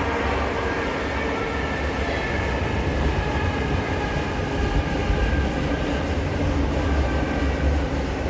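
EP2D electric multiple unit running on the line: a steady rumble with faint steady tones above it.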